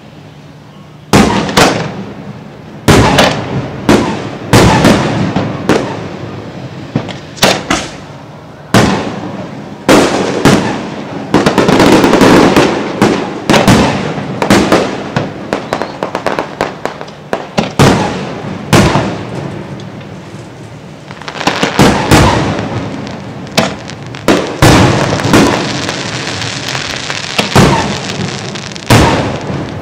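Aerial fireworks display: a rapid series of loud shell bursts and booms with echoing tails, coming in dense clusters of overlapping bangs and crackle partway through and again in the last third.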